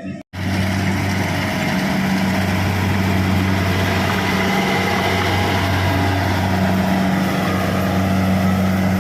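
Kubota rice combine harvester running steadily: a low, even engine hum under a broad mechanical hiss.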